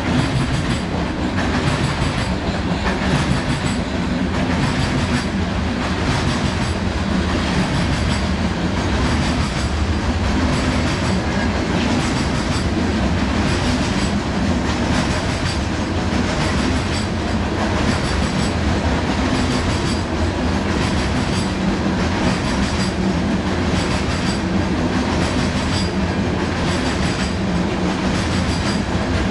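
A CSX train rolling past close by: a steady, loud rumble and clatter of the cars' wheels on the rails, with regular clicks.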